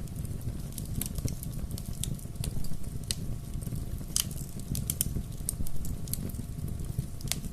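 Bonfire crackling: a steady low rumble of burning with irregular sharp pops and snaps of the wood, a couple of louder pops about four seconds in and near the end.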